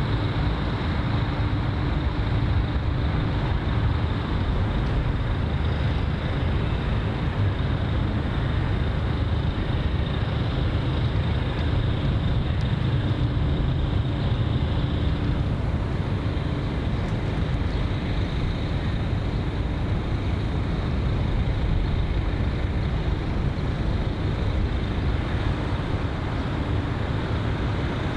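Steady low rumble of outdoor traffic-like ambience, with a faint hum that comes and goes.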